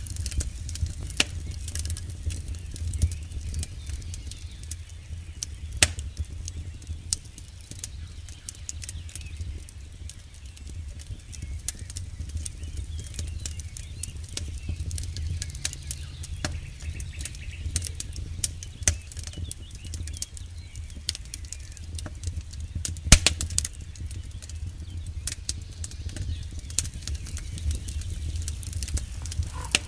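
Campfire burning: a steady low rumble of flames under irregular wood crackles and pops, with one sharp, loud pop about 23 seconds in.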